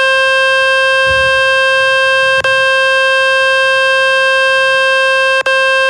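Samsung Galaxy A16 phone speaker playing a loud, steady buzzy tone from the Fix My Speaker website, a speaker-cleaning tone meant to shake dust and water out of the speaker. The tone drops out for an instant twice, about two and a half seconds in and near the end.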